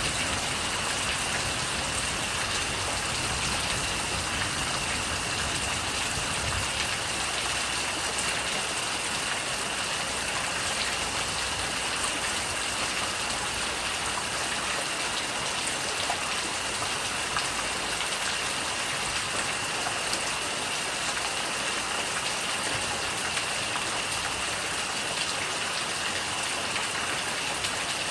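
Steady rain falling, an even continuous hiss of drops with no breaks, with a thin steady high-pitched tone running through it.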